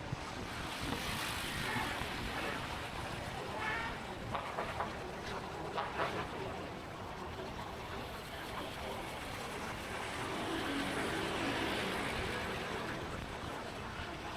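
Motorbike riding through city traffic: steady engine, road and wind noise, with a few short sharp sounds around the middle.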